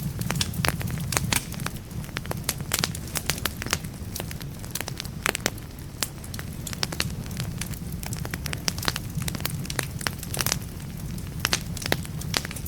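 Firewood logs burning in a fireplace, crackling with frequent irregular sharp pops and snaps over a steady low rush of the flames.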